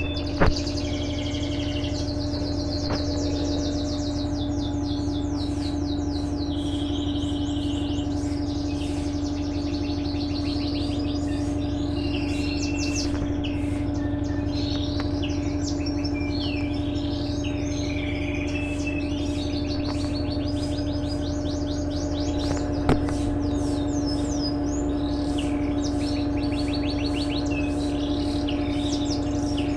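Electrolux LTE12 top-loading washing machine running with a steady mechanical hum, with birds chirping and trilling loudly over it. Two sharp clicks, one about half a second in and one about 23 seconds in.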